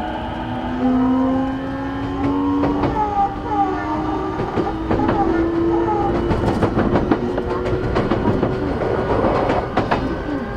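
Inside a JR East E233 series 8000 electric train, the VVVF inverter and traction motor whine rises steadily in pitch as the train picks up speed. Underneath are running rumble and repeated wheel clicks over rail joints.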